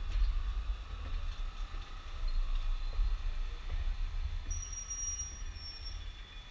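The tail of a heritage passenger train and its caboose rolling slowly past with a low rumble. About four and a half seconds in, a thin high squeal from the wheels lasts about a second and a half.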